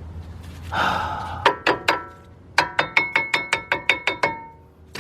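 A short scraping rub, then three sharp knocks and a quick run of about ten ringing metal-on-metal taps, some six a second: a new front brake pad being knocked against the caliper bracket, too tight to slide into place.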